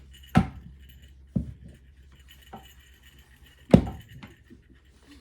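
Wooden play-gym legs and connectors knocking and clinking against each other as they are fitted together: a few sharp knocks, the loudest near the end.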